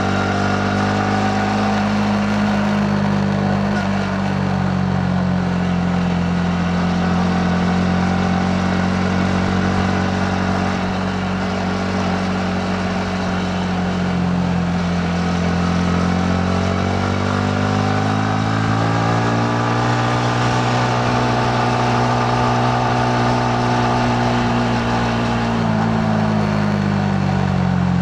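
Yamaha MT-15's single-cylinder engine running under way, holding a steady pitch for most of the time, then rising as the throttle opens about two-thirds through, holding, and dropping back near the end.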